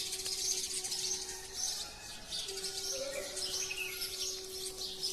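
Many small birds chirping and twittering in the early morning, with a steady low hum underneath.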